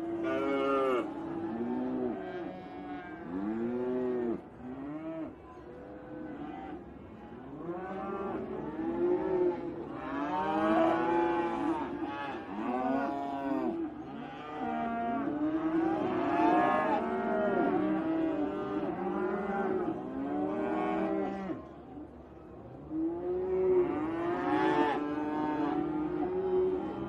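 Holstein dairy cows mooing, many calls overlapping one another, each rising and then falling in pitch.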